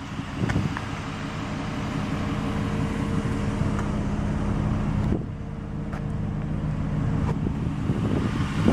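A 2007 Mitsubishi Galant GTS's 3.8-litre V6 idling with a steady low hum, which dips briefly about five seconds in.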